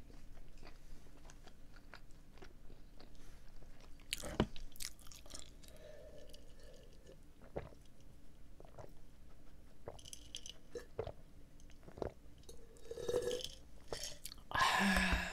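Close-up mouth sounds of chewing the last bites of a soft glazed doughnut, full of small wet smacks and clicks, then drinking from a glass jar. The loudest moment is a breathy burst near the end.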